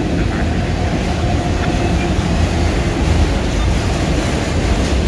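Freight train of autorack cars rolling past close by: a loud, steady rumble of steel wheels on the rails.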